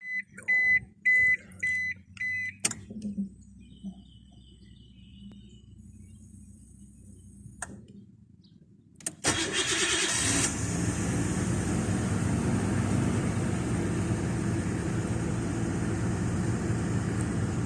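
Five short electronic beeps, then a single thump. About nine seconds in, the 1996 Nissan Skyline R33 GTS's RB20E straight-six starts from cold, flares for about a second and settles into a steady fast idle.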